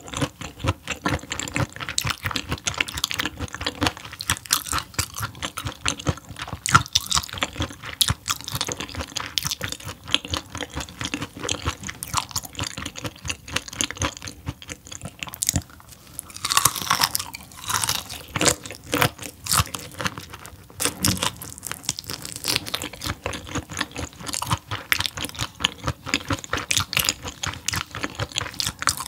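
Close-miked chewing of raw gizzard shad eaten bone-in, with rapid crisp crunching and wet mouth clicks throughout. There is a louder, wetter stretch of chewing a little past the middle.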